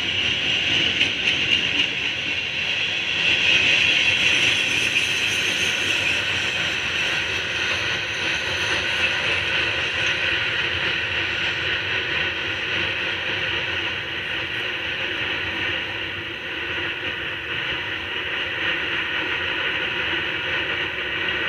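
Open-top freight cars of a gravel train rolling past: steady rolling noise of steel wheels on rail, with a bright hiss that is loudest a few seconds in and eases slightly later.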